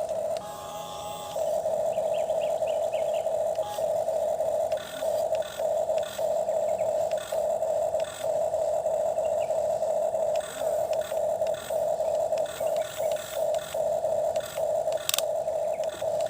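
Small electric motor of a toy excavator whining at one steady pitch, stopping and starting in quick short runs during the second half, with scattered scraping clicks as it digs.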